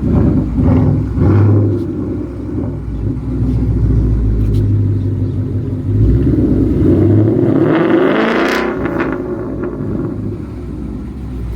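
Ford Mustang GT's 5.0 V8 with a straight-pipe, X-pipe, resonator-delete exhaust, running loud with a deep low rumble. It revs up about seven seconds in and falls back after about nine.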